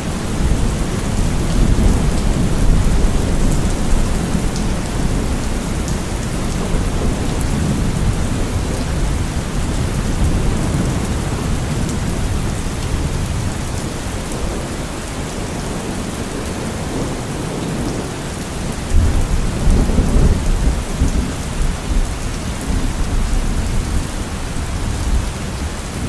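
Steady heavy rain falling, with low rolling thunder rumbling under it, swelling most strongly about nineteen to twenty-one seconds in.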